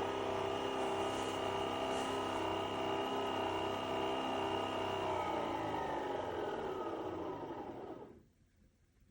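Nespresso Vertuo Pop+ spinning the capsule while it brews: a steady motor whir whose pitch sinks as it winds down, then it stops about eight seconds in.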